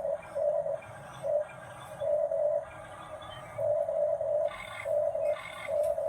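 The small electric motor of a remote-control toy truck whirring in short bursts, about seven times at uneven gaps, each one a steady mid-pitched buzz.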